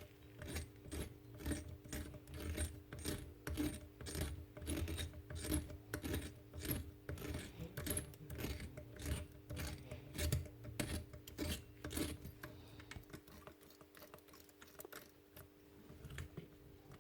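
Jigsaw blade-clamp mechanism being worked by hand: repeated metallic clicking and chewing, about two clicks a second, fading after about thirteen seconds. The chewing comes from a snapped spring inside, which lets the clamp rub on its side wall.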